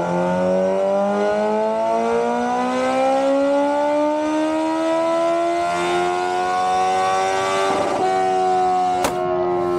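Sport-bike engine running wide open on a motorcycle dyno, pulling through a gear under load. Its pitch rises steadily for about eight seconds, then holds. A sharp crack comes about nine seconds in.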